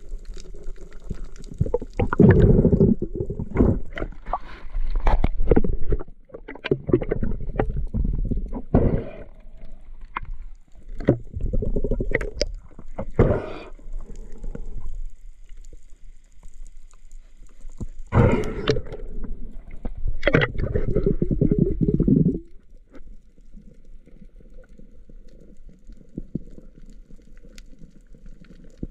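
Water gurgling and bubbling in irregular bursts with scattered clicks, as picked up by a camera underwater. The bursts die away about 22 seconds in, leaving a quieter steady low rumble.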